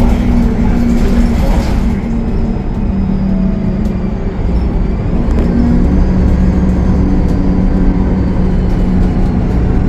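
Cummins ISL9 diesel engine of a 2013 Gillig Low Floor bus running under way, a steady low drone whose engine tones shift in pitch a couple of times. There is a brief hiss about a second and a half in.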